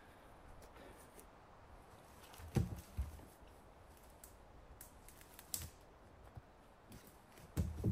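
A few scattered, irregular knocks and thumps over a faint background. The loudest come about two and a half seconds in and in a close pair near the end.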